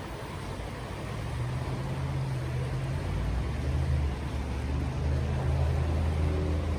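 Low, steady engine hum of a nearby motor vehicle, growing louder from about a second in and then holding.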